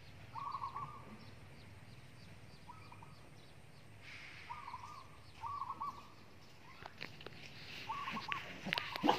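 Birds calling: short calls of a few quick notes each, repeated every one to two seconds, over faint high chirping. A few sharp clicks come near the end.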